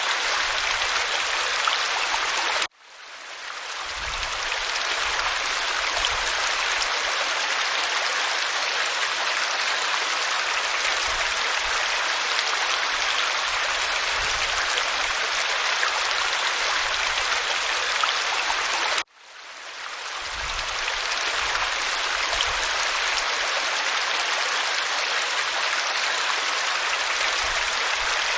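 Waterfall rushing steadily over rock, an even wash of water noise. It cuts out abruptly twice, about three seconds in and again past the middle, each time fading back up within a second or so.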